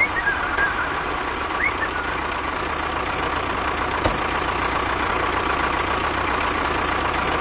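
Steady running noise of an engine, like a small tractor or truck idling, with a few short high chirps in the first two seconds and a single sharp click about four seconds in.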